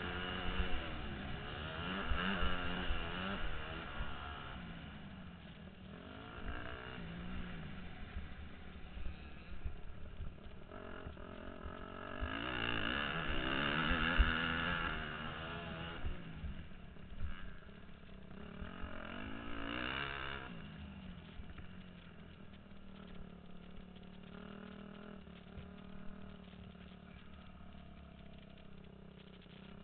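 Motocross dirt bike engine revving up and down repeatedly as it is ridden, with a steady low rumble of wind and bumps underneath. After about 22 seconds the engine settles into a quieter, steadier note.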